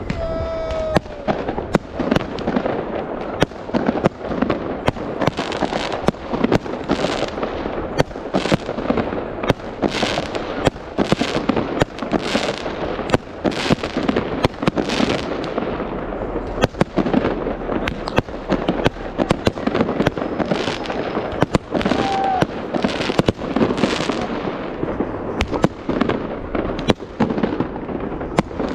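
New Year fireworks going off in a dense, continuous barrage of sharp bangs and crackling, several bursts a second.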